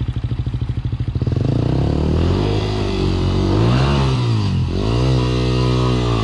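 Single-cylinder dual-sport motorcycle engine thumping at low revs, then revved up and down several times as the rider works it through a rocky river crossing.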